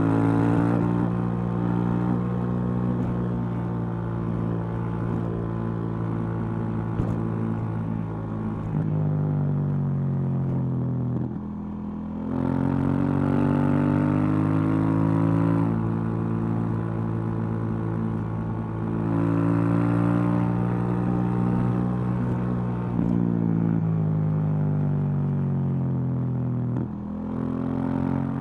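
2018 KTM 790 Duke's 799 cc parallel-twin engine through its stock exhaust, heard from on the bike while riding. The engine note sinks slowly as the bike slows, dips briefly about twelve seconds in, then rises as it accelerates again. Further breaks in the note follow, where gears change, and there is one more short dip near the end.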